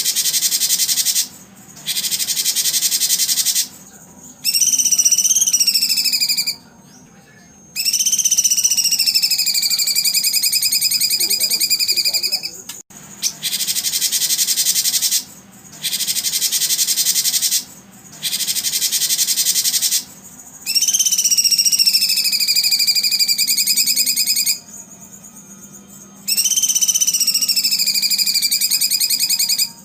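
Recorded wildlife sounds: loud, high buzzing trills of insects or frogs start and stop every second or two. Between them come long whistled calls that dip in pitch and then hold steady. The same sequence repeats about halfway through.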